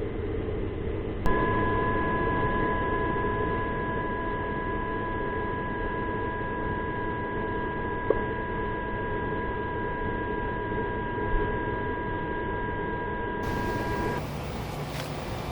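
A steady electronic whine of two high tones, starting with a click about a second in and cutting off near the end, over a steady low noise hum.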